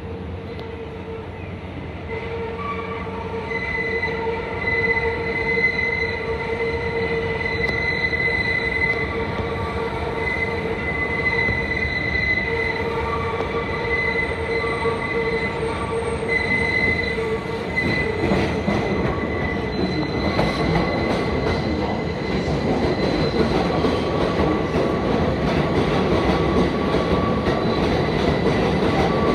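R188 subway train pulling into the station with its steel wheels squealing in steady high tones that come and go over the rumble of the cars. The rumble grows louder about two-thirds of the way through as the train comes alongside.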